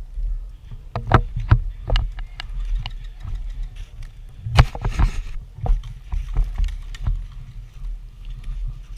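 Wind rumbling on the microphone in a snowstorm, with a string of sharp clicks or pops at irregular spacing, about two a second, and a denser patch of noise about halfway through.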